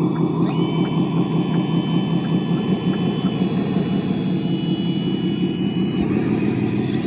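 Electric motor and gear train of a radio-controlled construction model running under load, a steady gear grind with a high whine that starts about half a second in, sags slightly in pitch and drops away near the end.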